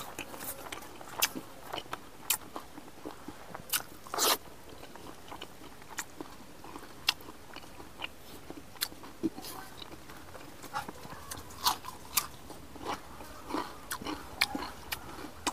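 A person chewing and biting food, with sharp mouth clicks and crunches at irregular intervals.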